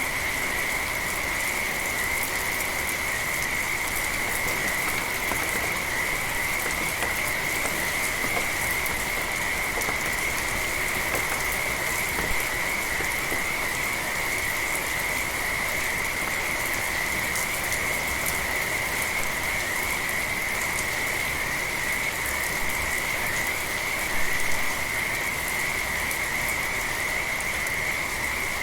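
Steady rain falling with a chorus of frogs calling without a break, a constant high-pitched trill over the hiss and patter of the rain.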